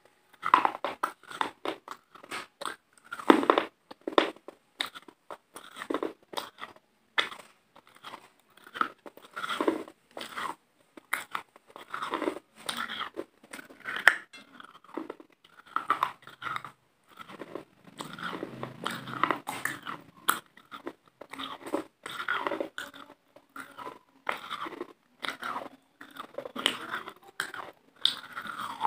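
Close-miked mouth sounds of a person biting and chewing a crunchy white food, with irregular crunches throughout.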